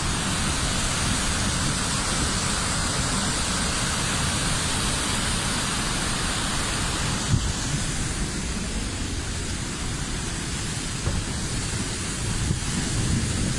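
Steady rushing roar of the Pailón del Diablo waterfall on the Pastaza River, with an uneven low rumble underneath.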